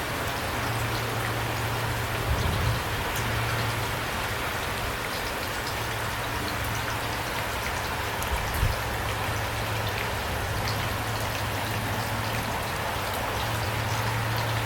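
Steady rain falling, an even hiss with scattered drop ticks, over a low steady drone.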